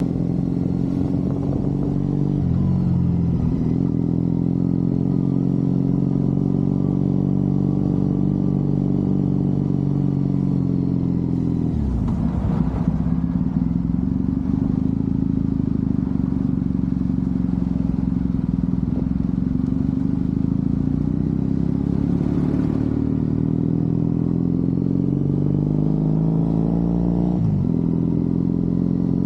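Triumph Bonneville parallel-twin motorcycle engine running under way, heard from the rider's position. The engine note holds steady, dropping in pitch and picking back up a few seconds in, near the middle and near the end.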